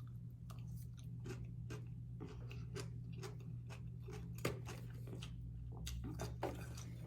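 Close-up chewing of fried catfish, with many small irregular mouth clicks over a steady low hum.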